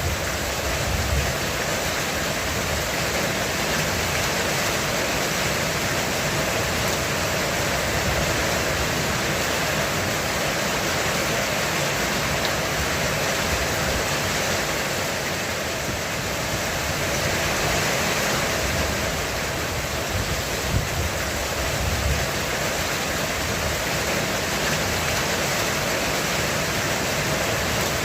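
Heavy rain falling on a roof: a steady, dense hiss with no let-up.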